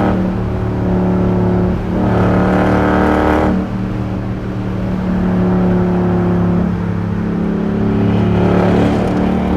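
Straight-piped 2021 Dodge Durango R/T's 5.7-litre HEMI V8 exhaust droning at a steady pitch while driving. It swells louder and brighter under throttle about two seconds in, and again near the end.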